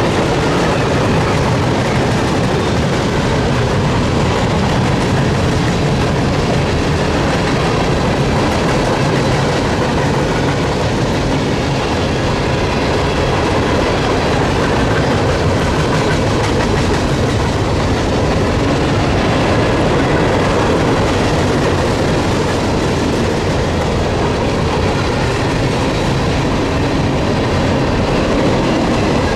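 Freight train cars rolling past at steady speed, the wheels clicking over rail joints.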